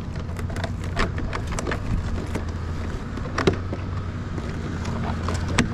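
Scattered clicks and knocks of vinyl siding being handled and pushed into place, the sharpest about three and a half seconds in and near the end, over a steady low hum.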